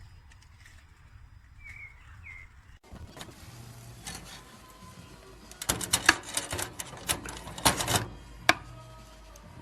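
A few faint bird chirps, then from about three seconds in a run of sharp clicks and clattering knocks, loudest and densest in the middle to later part.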